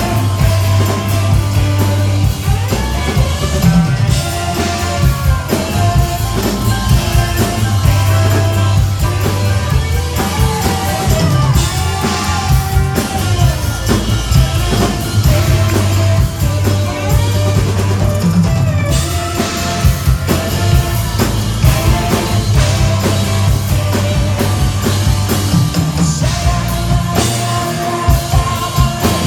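A yacht rock cover band playing live: drum kit, a steady bass line and singing over the band.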